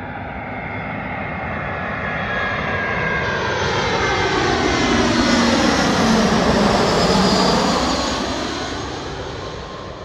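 Jet airliner on landing approach passing close by: engine noise builds to a loud peak about two-thirds of the way through, then fades, with a low engine tone dropping in pitch as it goes past.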